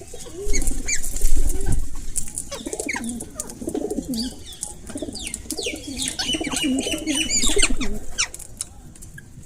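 Parrots calling, a busy mix of short sweeping chirps and squawks, thickest past the middle, over lower wavering calls.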